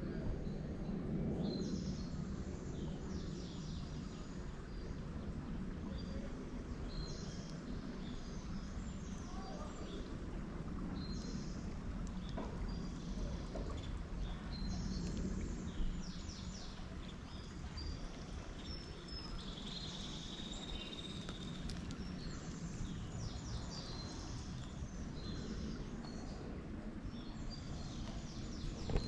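Small birds chirping and trilling in short repeated phrases over a steady low background rumble.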